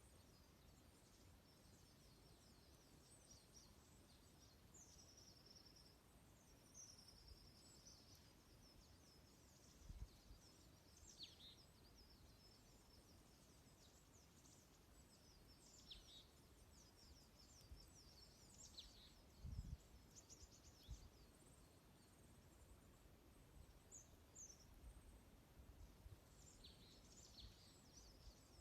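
Small songbirds chirping and twittering faintly, many short high calls and brief trills scattered throughout, over a low outdoor rumble. Two dull low thumps stand out, about a third and two-thirds of the way through.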